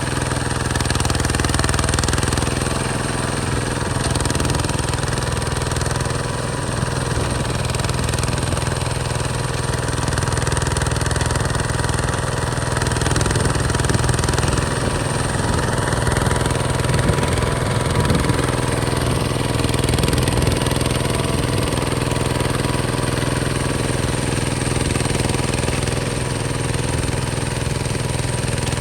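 Diesel engine of a Hinota HG Gold 155 DI two-wheel walking tractor running steadily. A thin high whine sits over it and fades out about halfway through.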